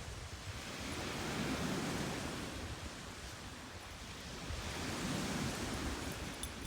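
Lake Superior waves washing onto a beach: a steady rush of surf that swells twice.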